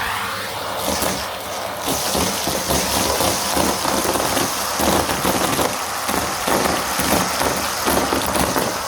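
Vacuum cleaner running over carpet, its noise swelling and fading over and over as it is pushed back and forth, with many small ticks of sucked-up grit such as sand.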